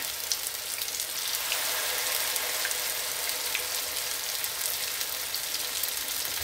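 Potato pancakes frying in hot sunflower oil in a pan: a steady sizzle with scattered small crackles.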